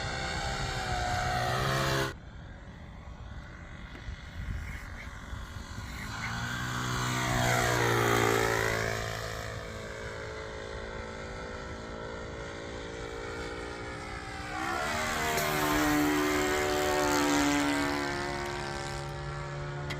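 Radio-controlled Pitts Special model biplane in flight, its motor and propeller droning. The sound cuts abruptly quieter about two seconds in, then swells and shifts in pitch twice as the plane makes two passes.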